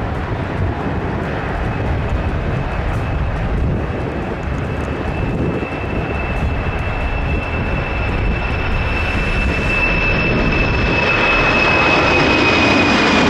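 Boeing 747 jet engines at takeoff power: a dense, steady rush with a high whine that dips slightly in pitch near the end as the sound grows a little louder.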